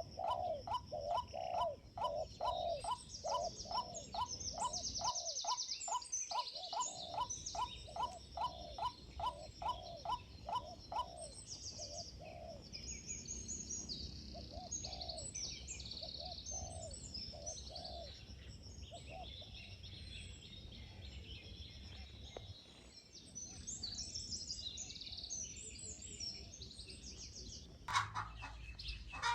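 Birds calling: a fast run of repeated, upward-hooked calls, about two to three a second, stops about eleven seconds in. High chirps and twitters go on throughout, and louder calls crowd in near the end.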